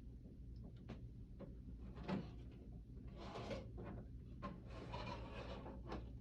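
Hard plastic humidifier parts being handled and fitted together: scattered light clicks, a knock about two seconds in, and spells of scraping and rubbing.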